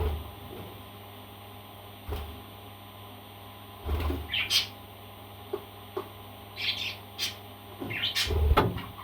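Parrot giving short, high chirps, a few at first and then more often toward the end. Several low thumps come in between.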